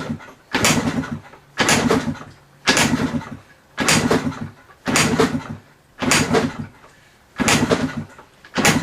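1985 Yamaha Tri-Z's two-stroke single being kick-started with the choke on: about eight kicks roughly a second apart, each a short burst of cranking that fades without the engine catching. This is a cold start after months of sitting.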